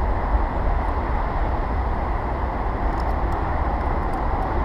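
Strong wind buffeting the microphone: a steady low rumble with hiss above it, and a few faint ticks about three seconds in.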